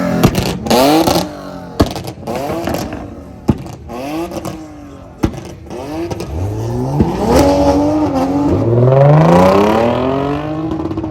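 Car engines revving and accelerating, with quick blips early on and then a long rising run whose pitch drops once, as at a gear change, before climbing again. A few sharp cracks cut through between the revs.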